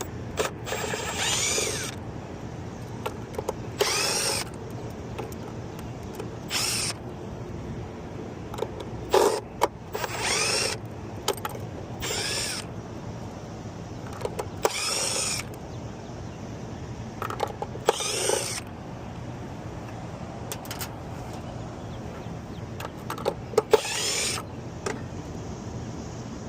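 Power drill backing out the bolts on top of a blower's fan shroud, in about nine short bursts of roughly a second each, its whine rising and falling in pitch within each burst.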